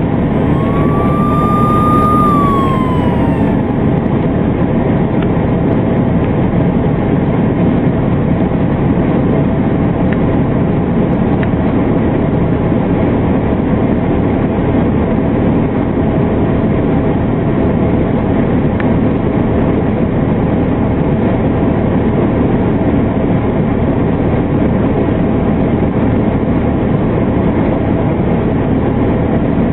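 Steady, loud vehicle running and road noise. In the first few seconds a siren wails once, rising, holding and then falling away.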